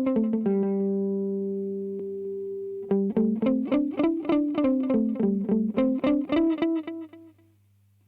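Electric guitar played through a DemonFX Reverb & Delay Workstation pedal: a quick run of picked notes, then a held note left ringing for a couple of seconds, then another fast run that fades away near the end, leaving a faint hum.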